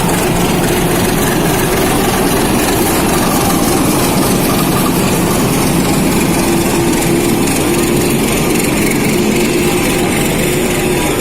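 A train's diesel locomotive engine running with a loud, steady drone and a low hum that holds its pitch.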